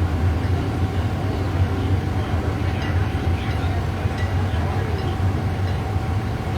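Steady low rumble of a moving vehicle, with an even wash of running noise and a faint steady tone above it.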